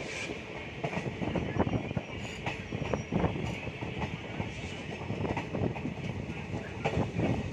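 Passenger coach running on the rails, heard from its open door: a steady rumble of wheels on track with irregular sharp clacks as the wheels cross rail joints and points.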